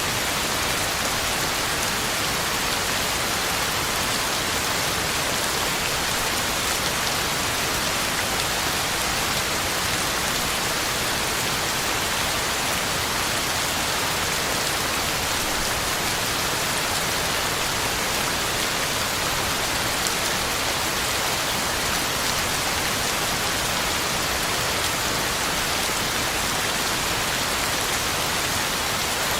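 Heavy rain falling steadily, a dense even hiss of drops hitting the ground and leaves.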